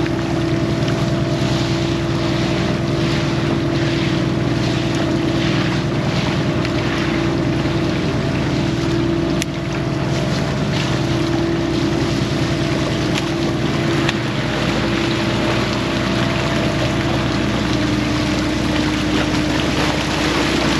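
Fishing boat's engine running steadily under way, with the rush of water along the hull.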